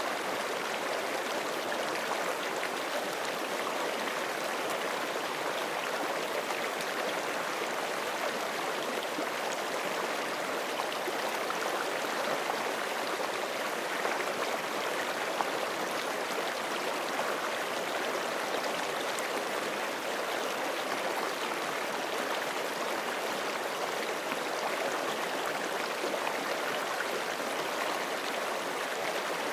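Forest creek flowing over rocks: a steady, even rush of running water with no breaks.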